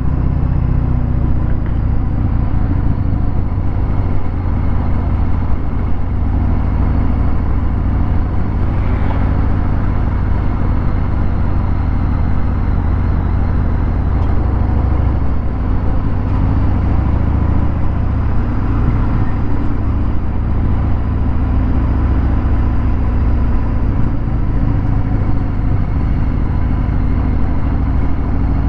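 Harley-Davidson Fat Bob 114's Milwaukee-Eight 114 V-twin running through a Vance & Hines Hi-Output 2-into-1 exhaust, heard from the rider's seat while riding in traffic. A continuous deep, loud rumble that rises and eases a little with the throttle.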